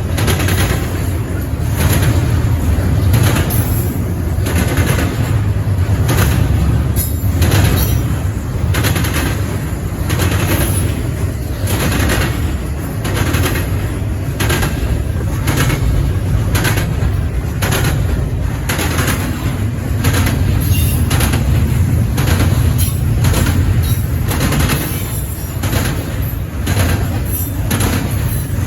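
Cars of a CN intermodal freight train rolling past, with a steady low rumble and sharp, repeated clacks as the wheels strike the track joints, roughly one to two a second.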